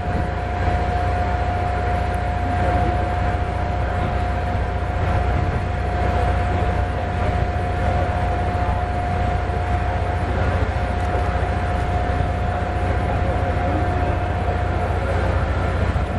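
Jet aircraft running steadily at idle: a constant whine over a low rumble, with no change in pitch or level.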